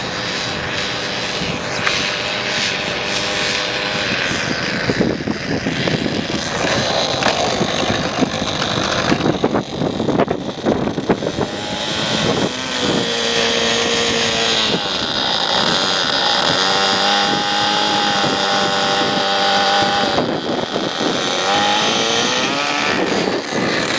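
Small two-stroke glow engine, an OS .46, running in an RC Fokker Eindecker model plane with its propeller. The engine note changes pitch several times as the throttle moves, and it sounds rougher and more uneven in the first half.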